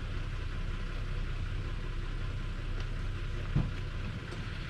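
Steady low rumble of a vehicle's engine and road noise, with a single short knock about three and a half seconds in.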